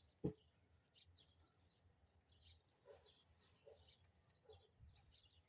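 Faint scattered bird chirps over a quiet background, with a single short knock about a quarter second in.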